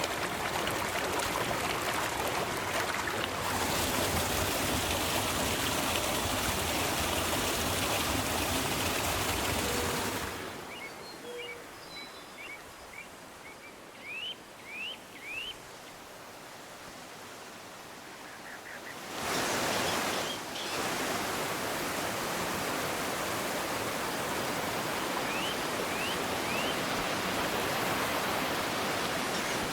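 River water rushing in a steady, full hiss. About a third of the way in it drops abruptly to a much quieter, thinner flow for several seconds, with a few short high rising chirps, then cuts back to the full rush.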